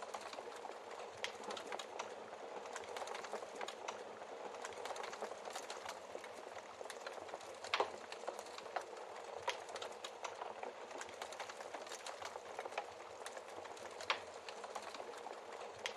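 Wood fire crackling in a hearth: a steady hiss with frequent small pops of burning logs, and a couple of louder pops about eight seconds in and near the end.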